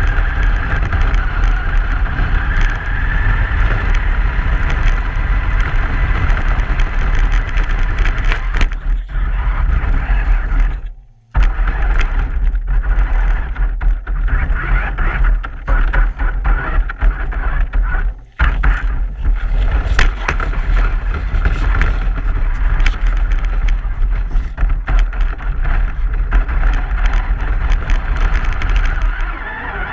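Truck driving noise: a steady loud low rumble with hiss above it and scattered knocks and rattles. It cuts out for about half a second around eleven seconds in, and for an instant near eighteen seconds.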